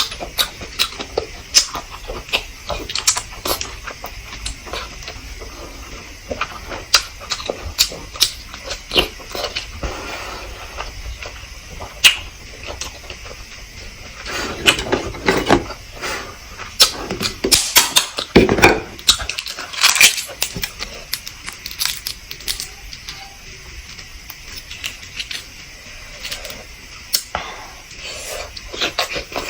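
Close-up eating sounds of a person eating fertilized duck eggs (balut): many irregular sharp clicks and wet smacks of chewing and handling the eggs, with a few louder clusters around the middle.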